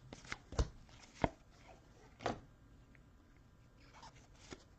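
Light taps and clicks of trading cards being handled and set down on a table. There are several separate strikes, the sharpest about a second in, then a pause and a few softer ones near the end.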